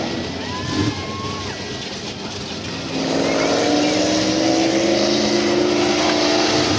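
Mud racing truck engine running under heavy load, quieter for the first few seconds and then loud from about three seconds in, its pitch climbing slowly as it pulls.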